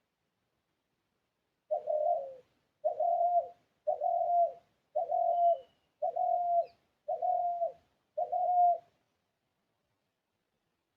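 A bird calling seven times in an even series, about one call a second, each call a short held note that drops at its end.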